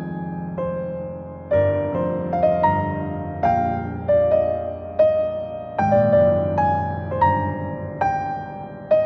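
Slow, soft piano music, single notes struck one after another, each ringing out and fading.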